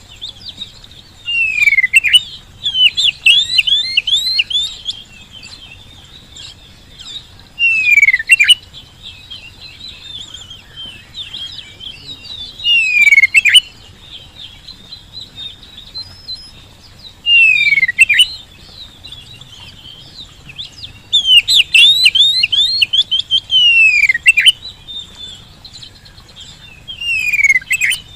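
Oriental magpie-robin (kacer) in full song. Each loud phrase opens with a falling whistled sweep and breaks into rapid chirps and trills. The phrases repeat about every four to five seconds, with quieter twittering between them.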